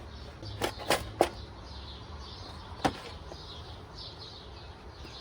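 Sharp clicks and knocks of parts being handled during work on an engine: three in quick succession about a second in and one more near the three-second mark, over a low steady hum.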